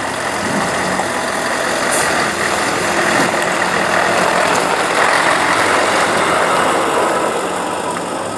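A car's engine running as the car drives slowly past close by. It grows louder through the middle and then eases off.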